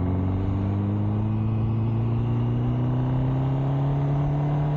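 MV Agusta Brutale motorcycle engine pulling in one gear, its steady note rising slowly and evenly as the bike gathers speed.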